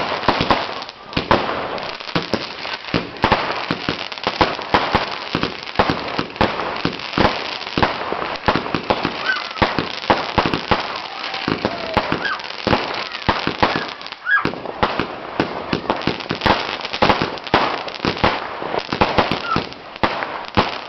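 Fireworks going off in a dense, unbroken barrage of bangs and crackles, many in quick succession, with a few short whistles among them.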